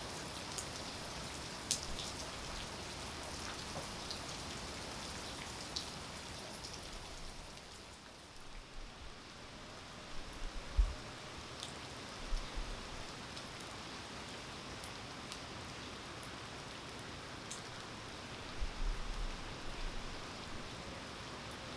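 Steady rain falling, an even hiss with scattered individual drops ticking sharply. The hiss eases slightly about eight seconds in, and a few dull low thumps come through, the loudest about eleven seconds in.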